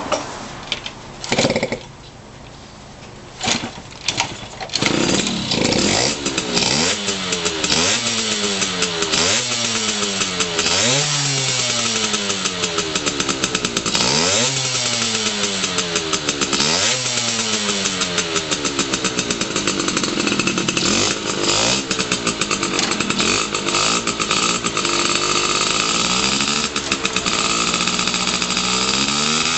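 Yamaha RX50's small two-stroke single-cylinder engine being started: a couple of short bursts, then it catches about five seconds in. It is revved up and down repeatedly, then settles to a steadier, fast-pulsing idle with small blips.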